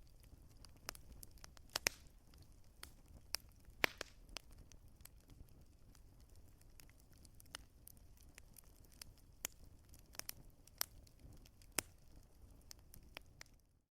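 Wood fire crackling: irregular sharp pops, some louder than others, over a low steady rumble. The sound cuts out for a moment just before the end.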